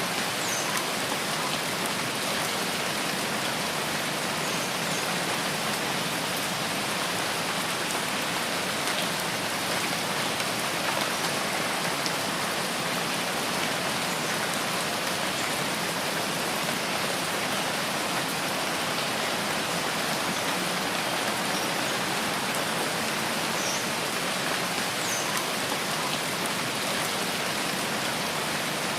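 Steady rainfall in a rain forest, an even patter of drops on leaves and surfaces with no change in strength, and a few faint high chirps now and then.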